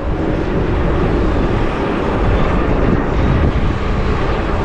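Steady rush of wind on a bike-mounted action camera's microphone while riding, mixed with traffic noise.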